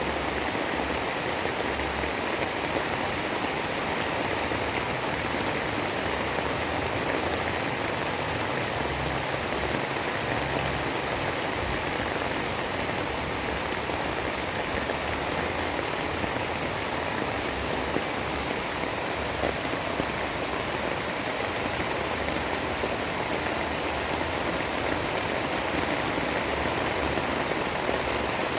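Steady, dense storm ambience like heavy rain falling, an unbroken hiss with a faint low rumble underneath and no distinct thunderclaps.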